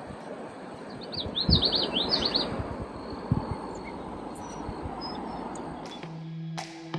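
A bird singing a quick run of rising chirps about a second in, over a steady rushing noise with a couple of dull thumps. Music with plucked notes comes in near the end.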